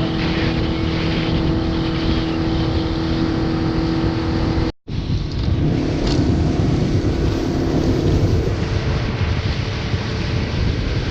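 Motorboat engine running steadily at speed, with rushing wind and water noise. The sound drops out completely for a moment a little before halfway through, then the engine and wind noise carry on.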